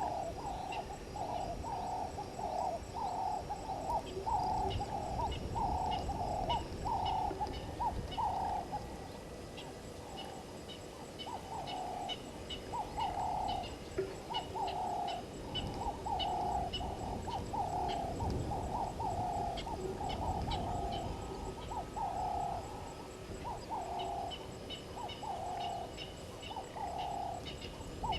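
An animal call repeated steadily, about two short hooting notes a second, with faint high ticking of insects in the background.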